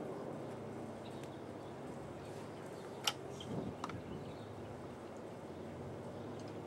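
Freight cars of a coke train rolling by with a steady rumble and a rapid rhythmic clatter of wheels over the rails, with a sharp knock about three seconds in and a lighter one just after.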